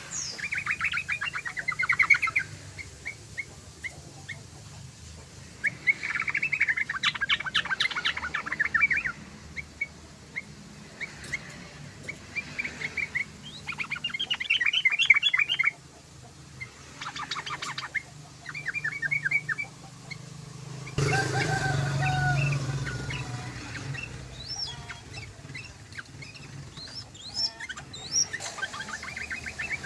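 Yellow-vented bulbul (trucukan) singing: repeated bursts of fast, bubbly chattering phrases, each lasting a second or a few seconds, with short pauses between. About two-thirds of the way through, a louder rushing noise comes in for a few seconds.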